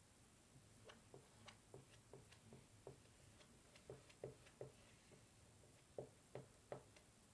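Near silence with faint, irregular light clicks and taps, two or three a second, from a plastic squeegee working chalk paste across a transfer stencil on a chalkboard surface.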